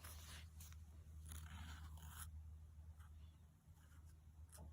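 Black marker drawing on paper, faint scratchy strokes for about two seconds, then a short click near the end, over a steady low hum.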